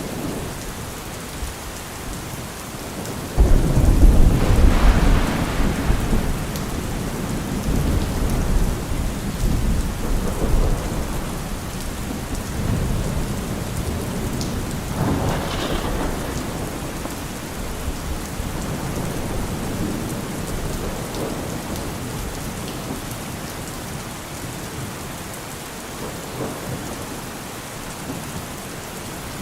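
Steady rain with thunder. A sudden loud thunderclap about three and a half seconds in rumbles on for a few seconds, a lighter crack comes about halfway through, and the rumbling then slowly fades under the rain.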